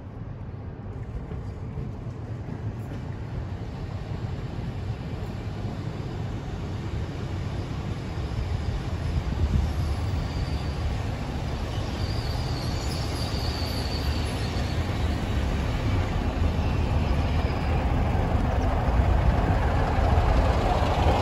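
Diesel multiple-unit passenger train approaching and running into the station platform. Its engine rumble and wheel noise grow steadily louder as it draws level.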